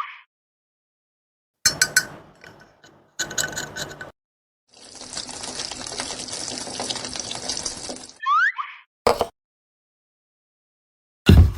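Crafting sounds cut together with silent gaps: two short rustling bursts, then about three seconds of steady hiss like something being poured or sprayed. A rising swoosh effect follows, then a sharp click and a low thud near the end.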